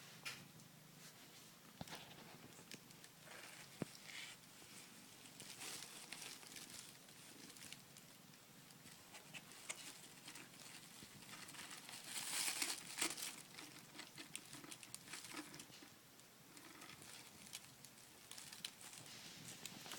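A kitten moving about in a cardboard box: faint, irregular rustling, scratching and small taps, with a louder flurry of rustling about twelve seconds in.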